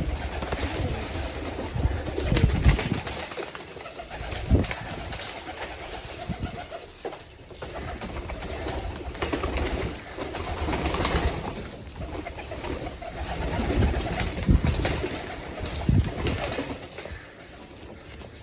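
Many domestic pigeons cooing together in overlapping, continuous calls, with a few short low thumps now and then.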